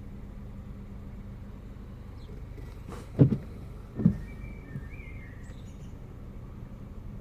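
Peugeot RCZ 1.6 THP turbocharged four-cylinder engine idling steadily during warm-up from a cold start, the period when its idle intermittently dips as if about to stall. Two short loud thumps come about a second apart just past the middle.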